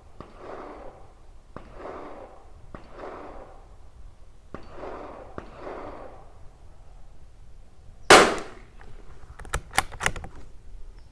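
A .22 LR Tikka T1x bolt-action rifle fires a single shot about eight seconds in: one sharp crack that dies away quickly. About a second and a half later come a few sharp metallic clicks as the bolt is worked. Before the shot there are soft puffs of noise, about one a second.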